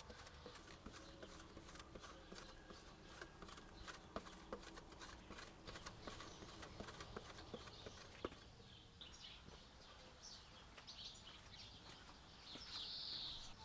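Faint, irregular light clicks and taps for about eight seconds, then short high chirps of small birds, strongest near the end.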